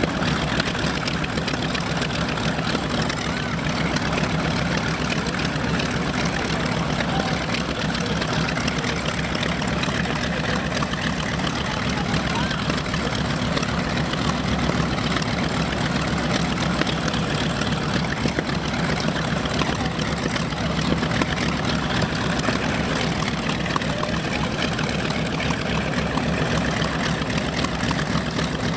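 Piston-engined propeller aircraft with its engines running steadily at low power, a dense, even throb with no change in speed.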